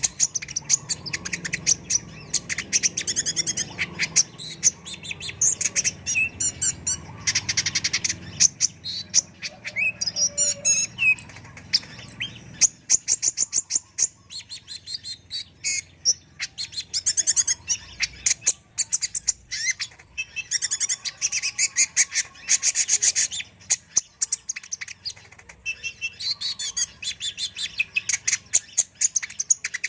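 Kolibri ninja sunbird singing non-stop: fast, high-pitched chirps and twittering trills in quick runs with short pauses between them.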